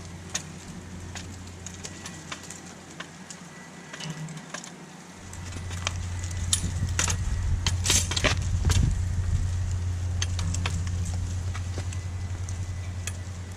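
Sharp metallic clicks and clinks as the bent steel frame of a tow-behind lawn sweeper is worked back into shape, with a cluster of louder clanks a little past the middle. Under them runs a steady low motor hum, fainter for the first few seconds and then louder.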